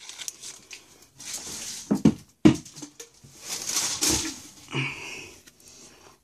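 A trading card pack's foil wrapper being torn open and handled, crinkling in bursts, with a few short low sounds in between.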